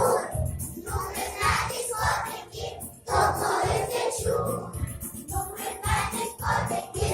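A group of young children singing a song together over a recorded backing track with a steady beat.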